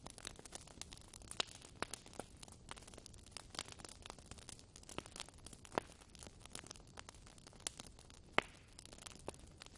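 Wood fire crackling in a fireplace: irregular sharp snaps and pops over a faint hiss, with a few louder pops.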